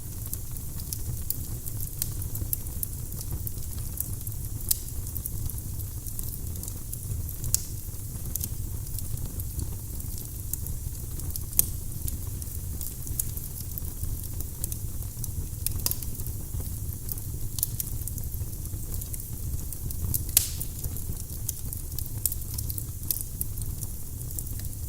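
Firewood burning in a fireplace: a steady low rumble of the flames with sharp pops and crackles at irregular intervals, a few of them louder.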